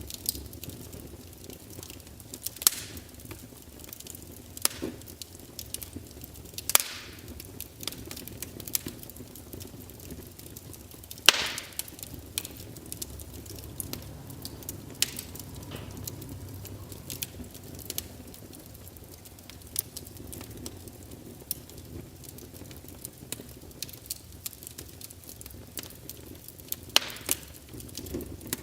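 Wood fire burning in a fireplace: a low steady rumble of flames with scattered crackles and sharp pops of burning logs, the loudest pops about 3, 7, 11 and 27 seconds in.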